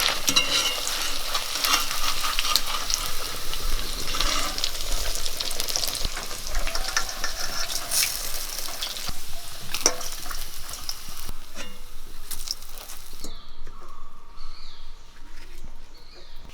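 Chicken pieces deep-frying in hot oil, sizzling steadily, with sharp clicks of stirring in the pan. About 13 seconds in, the sizzle cuts off abruptly, leaving a quieter stretch.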